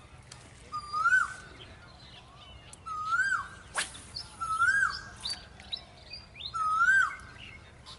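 A bird calling four times, about every two seconds, each call a short whistle that rises and then drops. A single sharp click sounds just before the middle.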